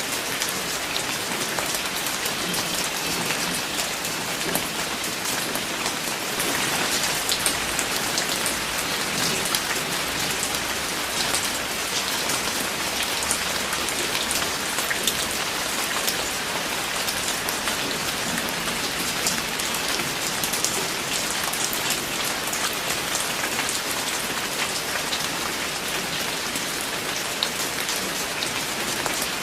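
Steady rain falling, a dense patter of many fine drops hitting a surface, a little heavier for a few seconds about a quarter of the way in.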